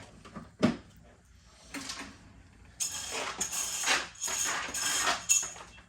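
A sharp knock, then wood-pellet cat litter poured in several long rattling, hissing pours.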